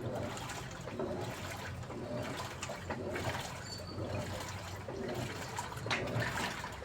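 Daewoo washing machine with water moving and splashing in the drum, uneven and surging, over a steady low hum.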